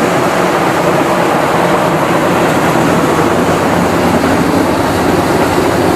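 Rice milling machinery running steadily: a loud, continuous mechanical noise with a low hum beneath it.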